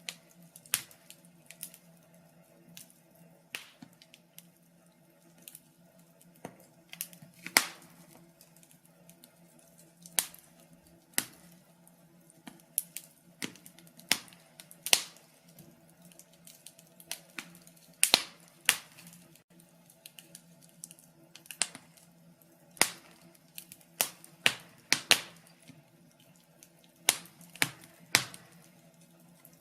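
Wood fire crackling, with irregular sharp pops and snaps about one or two a second, some much louder than others, over a faint steady low hum.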